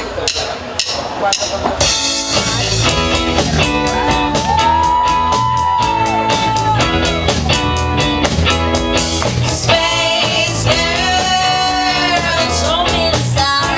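A rock band playing live, with a drum kit keeping a steady beat, guitar, and a singer holding long notes. The full band comes in about two seconds in.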